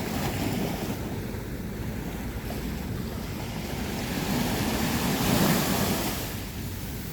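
Sea waves breaking and washing on a sandy beach, a steady rushing surf. One wave swells to its loudest about five seconds in, then recedes.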